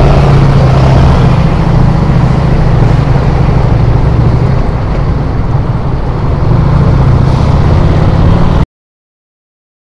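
Cruiser motorcycle engine running steadily as the bike pulls away and rides on. The sound cuts off abruptly near the end.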